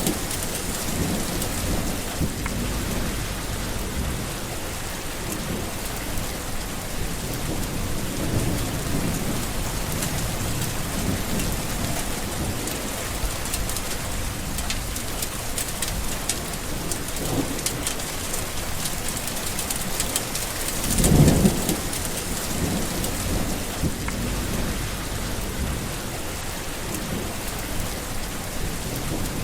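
Steady heavy rain falling on a surface, with thunder rumbling low now and then and one louder roll of thunder about three-quarters of the way through.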